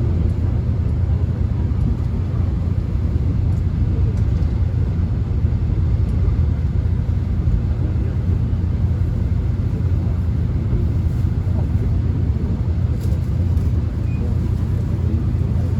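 Steady low rumble inside a moving subway train car, the train running along the track.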